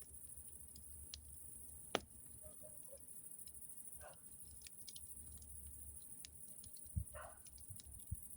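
Campfire crackling faintly, with scattered small snaps and three sharper pops, about two seconds in, near seven seconds and just before the end.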